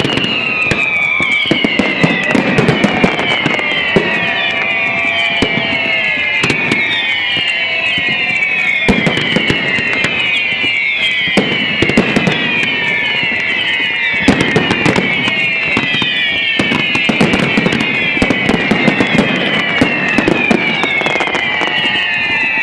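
Fireworks display: a dense run of bangs and crackles, overlaid by a continuous series of whistles that each fall in pitch, a new one starting every second or two.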